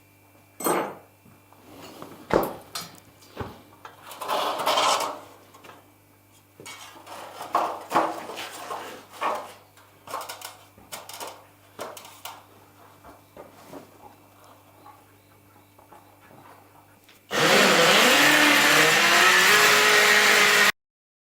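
Scattered knocks and scrapes of hand work on timber, then, near the end, an electric drill spins up with a rising whine and runs steadily at full speed for about three seconds before cutting off abruptly.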